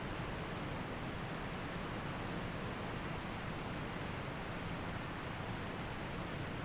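Waterfall and mountain stream rushing in a steady, even roar of falling and flowing water.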